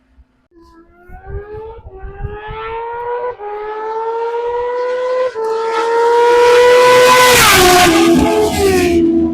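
Superbike engine accelerating hard through the gears, its pitch climbing with a short drop at each of about three upshifts. It then sweeps past at high speed, getting loudest and falling in pitch about seven and a half seconds in.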